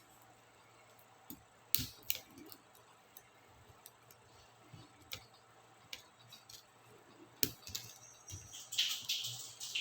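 Scattered small plastic clicks and snaps, with a quick run of clicks and scraping near the end: laptop keyboard keycaps and their clips being pried off.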